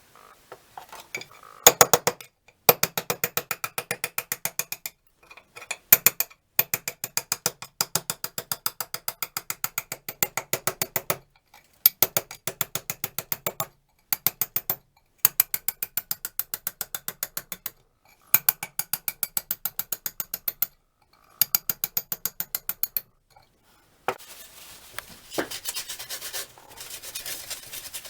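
Rapid mechanical clicking, like a hand ratchet being worked, in runs of one to two seconds with short pauses between. Near the end it gives way to a softer rubbing, scraping noise.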